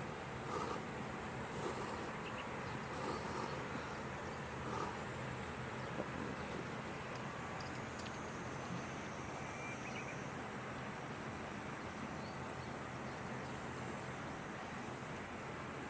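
Steady outdoor background noise with faint insect sounds.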